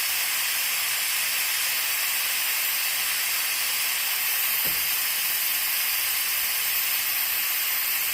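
Compressed air hissing steadily through a pneumatic oil extractor as it draws a vacuum in its tank, charging it to suck the warm oil out of the mower's engine.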